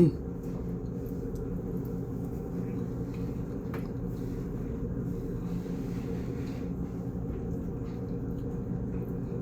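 Steady low mechanical hum, with a brief blip at the start and a faint tick about four seconds in.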